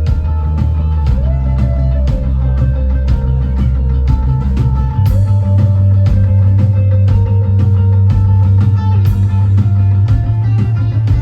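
Live rock band playing, with guitars, a heavy bass line and a drum kit keeping a steady beat, recorded from the audience.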